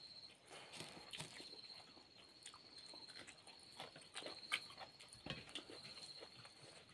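Faint eating sounds: chewing and mouth smacks with scattered small irregular clicks as food is eaten by hand.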